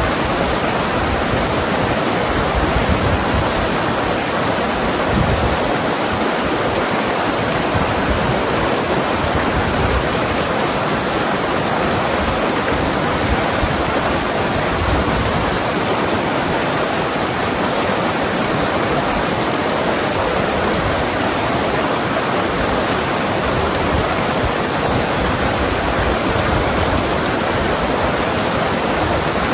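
Mountain river rushing and gurgling over rocks, a steady, even roar of water.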